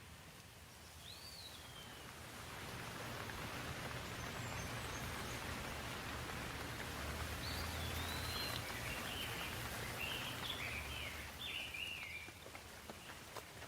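Steady rain falling, its hiss swelling louder a couple of seconds in and easing again near the end, with a bird chirping in short runs of calls in the second half.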